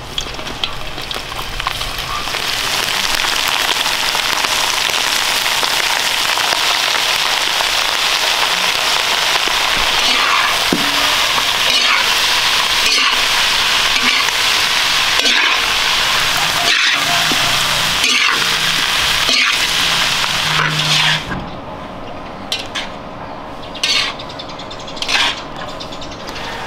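Chopped pig and cow innards sizzling loudly in a hot metal wok while being stirred with a metal spatula, with short scrapes and clicks through the sizzle. About 21 seconds in the sizzling stops abruptly, leaving a few brief sizzles.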